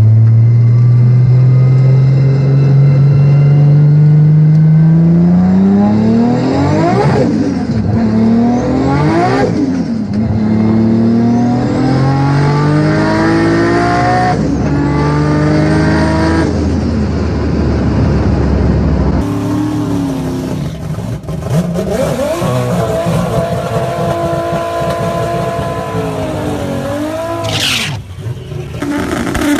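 Toyota Supra's turbocharged straight-six pulling hard under acceleration, its exhaust note rising through the gears with upshifts about seven, nine and a half, fourteen and a half and sixteen and a half seconds in. After a cut it is heard revving and running at steadier revs, with a brief high hiss near the end.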